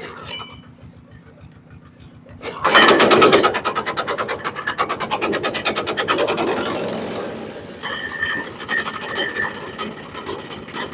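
Bandsaw mill's small gas engine idling with a low hum, then about two and a half seconds in a sudden loud, rapid mechanical clattering starts as the mill is run up, easing off slowly but continuing.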